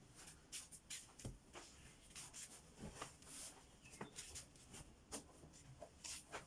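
Bedding rustling as a bed is made: faint, irregular swishes of fabric being pulled and smoothed, with a few soft taps.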